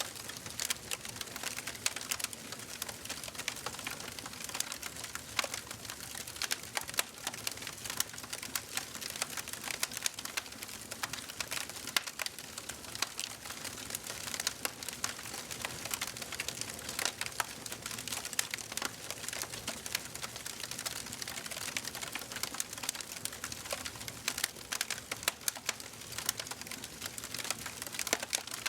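Wood fire crackling in a fireplace: dense, irregular pops and snaps over a soft steady hiss of burning.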